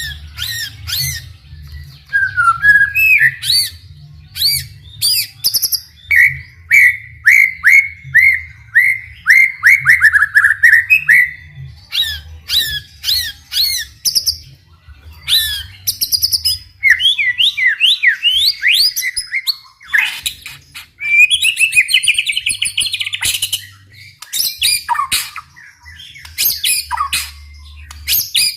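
White-rumped shama singing a long, varied song: quick phrases that include a run of repeated down-slurred notes, fast rising sweeps and rapid trills, one phrase after another with short gaps.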